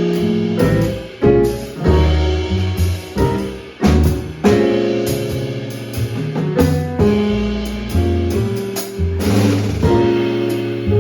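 Live small-group jazz: piano playing chords and lines over bass notes and a drum kit, with cymbal and drum strokes scattered throughout.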